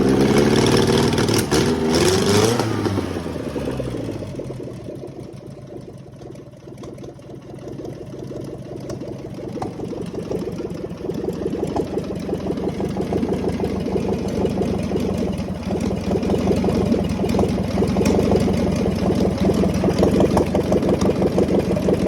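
ZAZ-968 Zaporozhets 1.2-litre air-cooled V4 engine being revved for the first two to three seconds, then the revs drop and it settles into a steady idle that slowly grows louder again.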